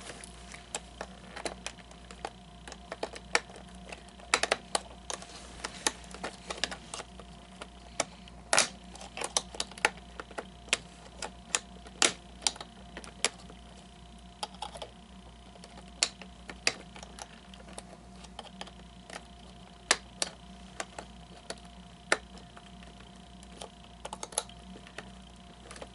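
Small flathead screwdriver picking and prying at little black plastic pieces in the pins of an animatronic figure's hip mechanism: irregular sharp clicks and taps of hard plastic and metal, some much louder than others, over a faint steady hum.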